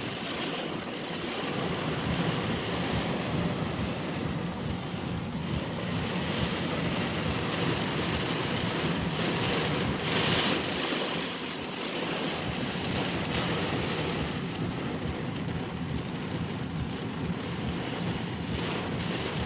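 Heavy rain on a car's roof and windshield, heard inside the cabin as a steady rushing hiss, with a brief louder surge about ten seconds in.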